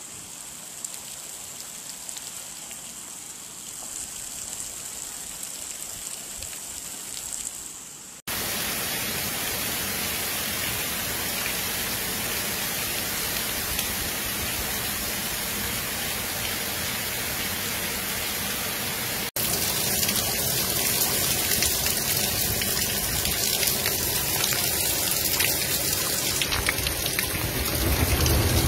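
Heavy rain pouring onto muddy floodwater flowing through a street, a steady hiss of rain and rushing water. The sound jumps abruptly louder twice, about eight seconds in and again near twenty seconds in.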